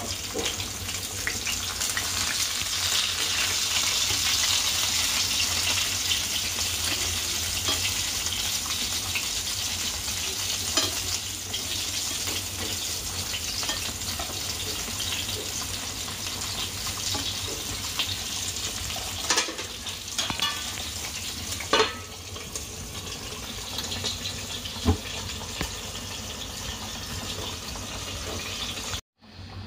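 Battered chicken wings sizzling steadily as they shallow-fry in hot oil in a pan, with a few sharp clicks along the way. The sizzle cuts out briefly near the end.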